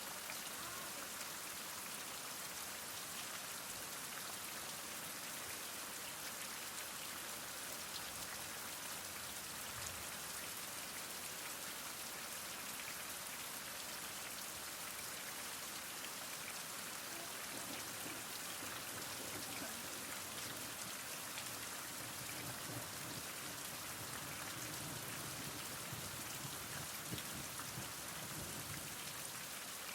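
Heavy rain falling steadily: an even hiss of countless drops, with a faint low rumble swelling in the second half.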